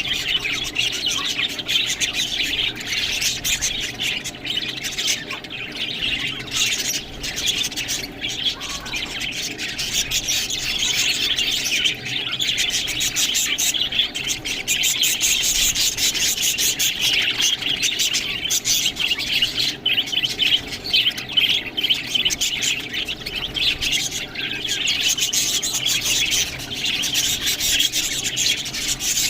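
A group of budgerigars chattering and chirping without pause, a dense, busy warble.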